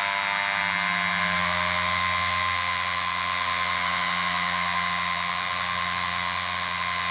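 A handheld electric tool's motor running steadily at constant speed, a continuous hiss with a steady whine and low hum.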